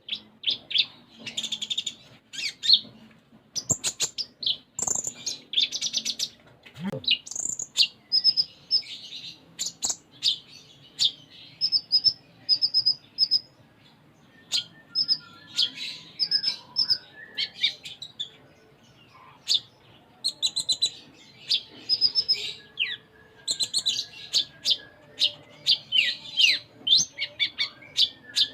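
A kolibri ninja sunbird singing hard in rapid bursts of high chirps, trills and short repeated notes, with brief pauses between phrases. It is a full, varied song packed with imitated phrases.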